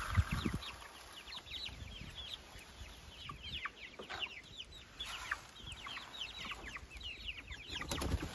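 Flock of meat chickens peeping: many short, high calls falling in pitch, overlapping, with a few low knocks at the start.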